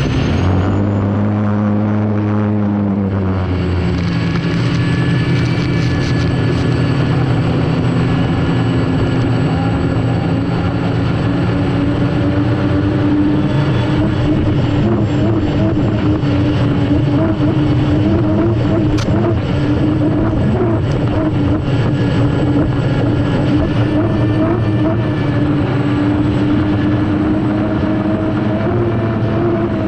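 Unlimited hydroplane's turbine engine running hard, heard from on board over the rush of wind and water. Its pitch dips and recovers in the first few seconds, then holds steady with a slight waver.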